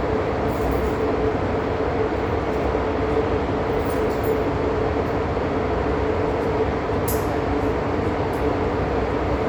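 Steady hum inside a Hong Kong MTR M-Train passenger car standing at a station, with a held mid-pitched tone over a low rumble and no change in level.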